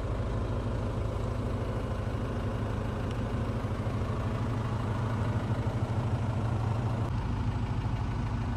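2020 DAF LF 180 lorry's 4.5-litre four-cylinder diesel engine idling steadily, a low even rumble.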